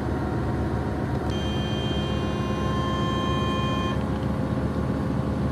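Passenger train running, its steady rumble heard from inside the carriage. A bit over a second in, a high squeal of several steady tones sets in, holds for about two and a half seconds, and stops.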